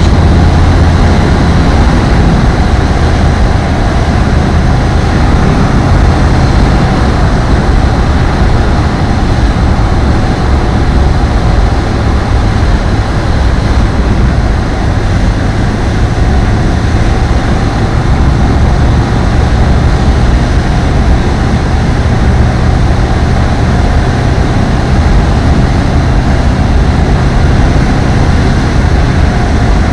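ApolloFox ultralight aircraft's engine and propeller running steadily in flight: a loud, even drone.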